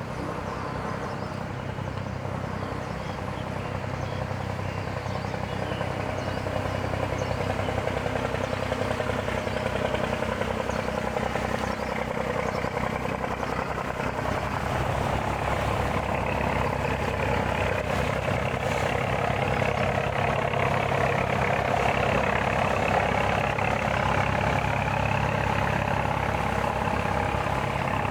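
A heavy engine running steadily at idle, a low, even hum that grows louder over the first several seconds.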